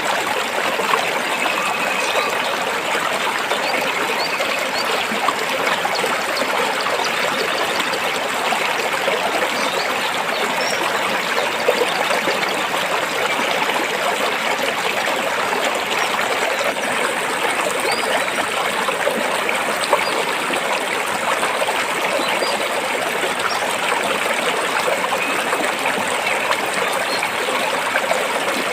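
A stream of water flowing and splashing over rocks, a steady rush with no letup.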